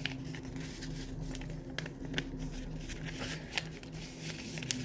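A sheet of plain paper being folded and creased by hand: soft crinkling with scattered small clicks, over a steady low hum.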